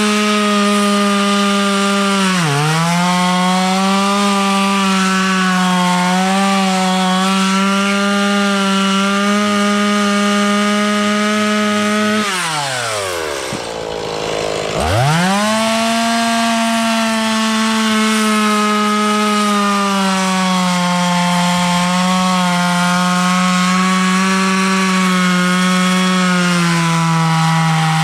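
Chainsaw running at full throttle through a long cut in wood, its pitch sagging briefly under load. About halfway through the revs drop right down to idle for a couple of seconds, then it is throttled back up to full speed and keeps cutting.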